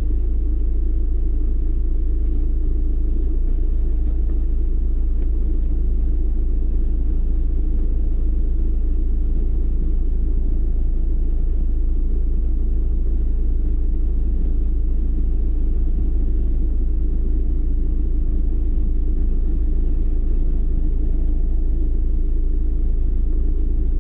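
A car driving, giving a steady low rumble of road and engine noise with a faint steady hum, unchanging throughout.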